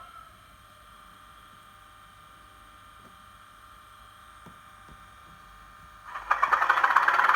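Sound decoder in a Bachmann OO-gauge Class 37 model locomotive playing its diesel engine start-up through a bass-enhanced speaker: a short click, a faint steady hum for about six seconds, then the English Electric engine suddenly turning over and firing up loudly with a rapid pulsing beat near the end.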